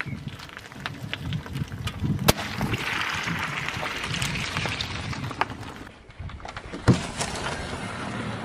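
Plastic toy vehicles being handled and cleaned: scattered clicks and knocks, with a stretch of hiss in the middle and two sharp knocks, one about two seconds in and one near the end.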